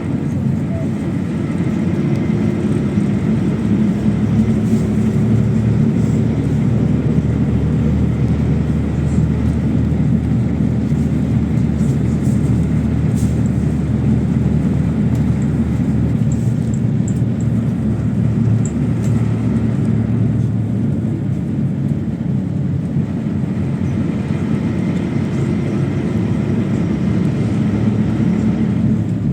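PAZ 32054 bus driving along, heard from inside: a steady, loud engine and road rumble.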